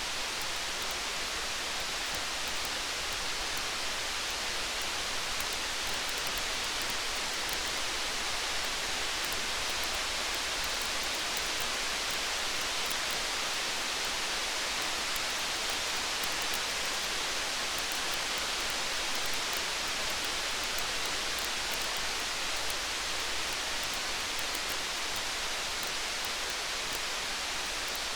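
Steady rain falling as an even hiss, with faint small crackles of a wood fire scattered through it.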